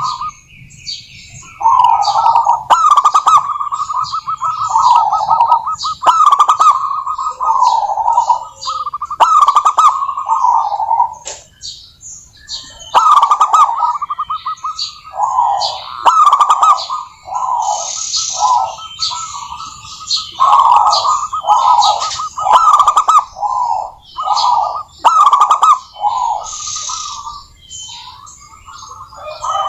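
Zebra dove cooing over and over in rapid rolling, trilled phrases, with short pauses, and small birds chirping faintly in the background.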